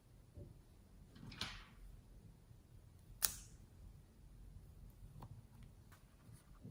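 Quiet slime-mixing handling sounds: a short rustling squish about a second and a half in, a sharp click about three seconds in, then a few faint ticks.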